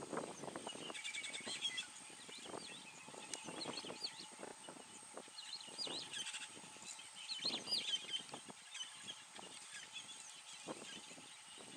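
Small birds chirping and twittering in clusters of short rising and falling notes, over soft irregular rustles and crackles.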